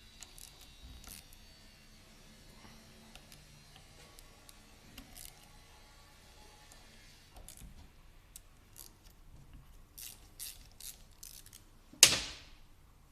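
Small metal parts and hand tools clicking and clinking on a workbench. One loud metallic clank rings out briefly about twelve seconds in.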